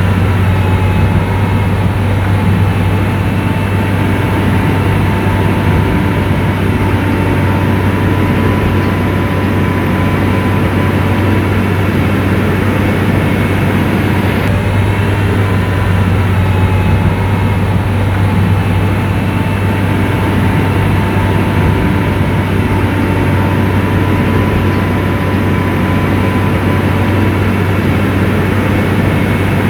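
Diesel engine of an SDLG motor grader running steadily under load, a deep even drone with a faint steady whine above it.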